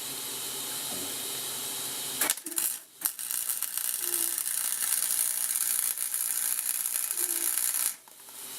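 Wire-feed welder laying a weld bead on the steel swing arm: a dense, steady crackle that starts a couple of seconds in, breaks off briefly, then runs for about five seconds and stops suddenly near the end.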